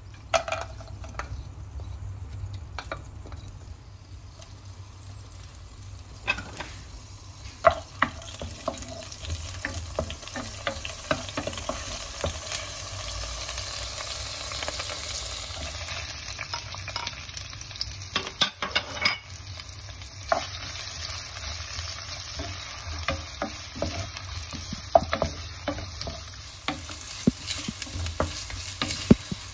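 Hot oil sizzling in a clay pot as whole spices and then sliced onions fry in it, with a wooden spoon stirring and giving sharp knocks and scrapes against the pot. The sizzle grows fuller about halfway through.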